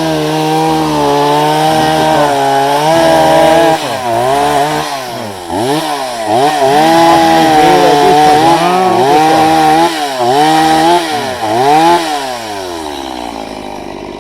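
Chainsaw cutting through logs, its engine held at high revs, then dipping and rising again several times. It drops to a lower, quieter running near the end.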